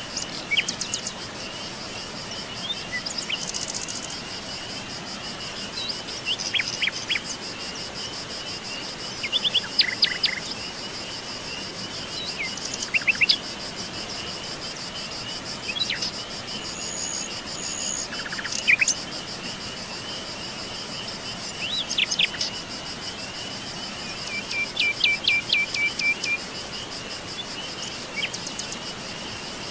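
Birds chirping in short, scattered calls every few seconds over a continuous high-pitched insect trill, like crickets.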